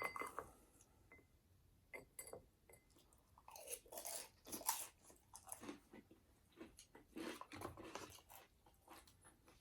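A person chewing food in a mukbang: irregular chewing and biting sounds, loudest about four to five seconds in.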